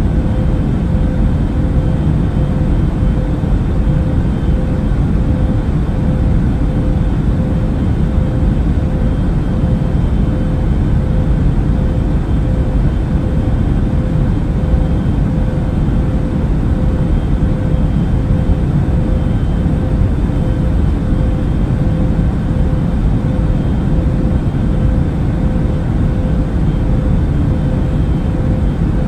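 Steady cabin noise of an airliner in flight: a constant deep rumble with a faint steady hum on top.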